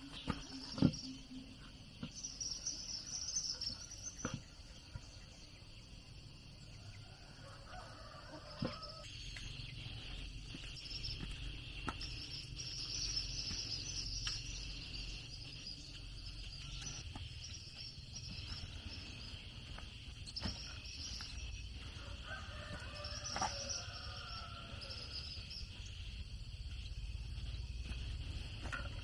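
A rooster crowing twice, about a quarter of the way in and again about three-quarters in, over a steady high insect drone, with a few sharp knocks, the loudest right at the start.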